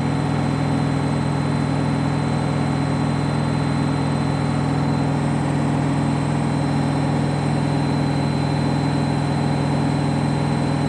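Candy washing machine on its spin cycle: the drum and motor spinning at a steady high speed, making an even hum with a faint high whine, with no change in speed.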